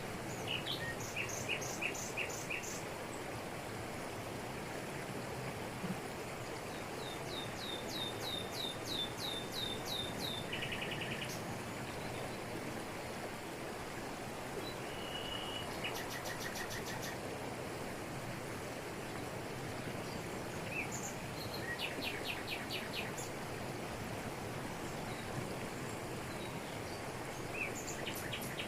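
Waterfall in a tropical forest with a steady rush of falling water over rocks. Birds call over it several times, each call a quick run of short, high, repeated notes.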